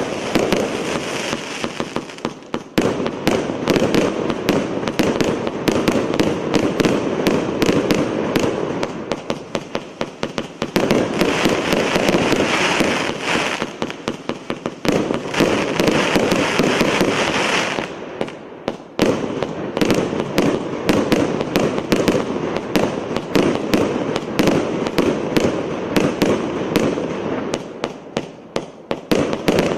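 A multi-shot firework cake firing in rapid volleys: a dense stream of launch thumps and bursts over continuous crackling, easing briefly a few times between sequences.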